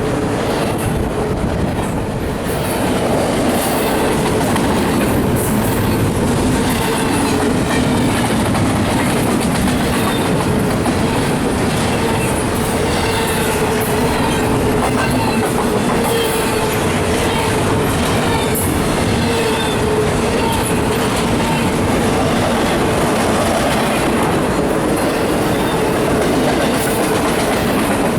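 CSX freight train cars rolling past on the rails: a steady rumble of steel wheels with clicks over the rail joints and a steady whine running through it.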